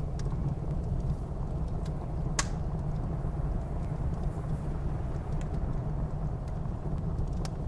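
Wood fire crackling in a fireplace, with scattered faint ticks and one sharp pop about a third of the way in, over a steady low rumble of blizzard wind.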